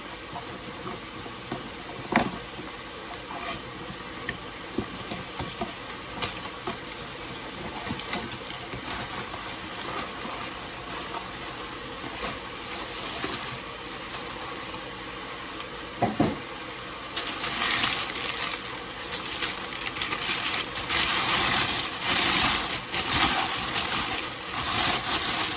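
Steady background hiss of food cooking, with scattered clicks and handling knocks. It turns into a louder, denser crackling rustle for the last several seconds.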